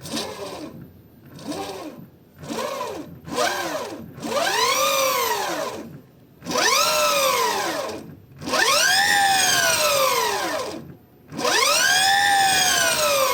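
Electric vehicle's drive with a newly fitted Mitsuboshi drive belt, whining as the throttle is opened and released eight times. The pitch rises and falls with each burst: four short blips, then four longer pulls of about two seconds each.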